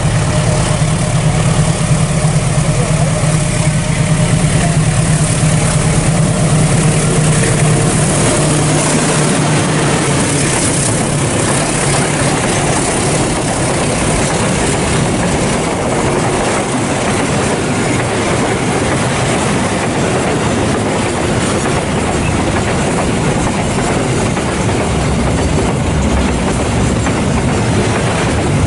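Container freight train passing close: a steady low diesel engine hum in the first several seconds, then the wagons rolling by with a continuous rumble and clatter of wheels on the rails.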